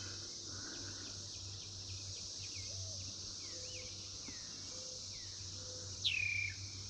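Steady high-pitched chorus of Brood X periodical cicadas, with birds calling over it in short chirps and sweeping notes. A louder falling bird call comes about six seconds in.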